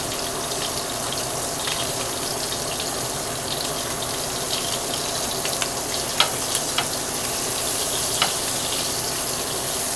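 Pork loin searing in a hot pan: a steady sizzle of fat and juices with scattered pops and crackles.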